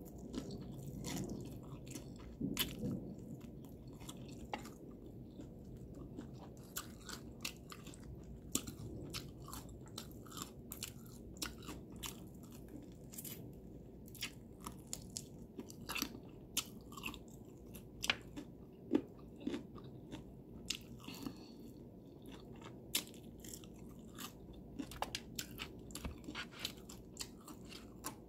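Close-up chewing and crunching of crispy fried chicken: many short, sharp crunches and wet mouth clicks, irregular and spread throughout.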